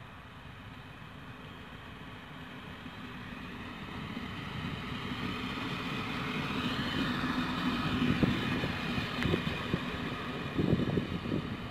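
HŽ passenger diesel multiple unit approaching and passing close by, its engine note growing steadily louder. As the cars go past, the wheels knock over the rail joints several times near the end.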